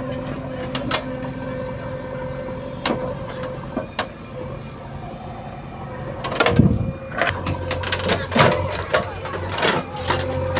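JCB 3DX backhoe loader's diesel engine running steadily, with sharp metal clanks and knocks from the machine at work, louder and coming in a cluster from about six and a half seconds in, when the engine note drops lower.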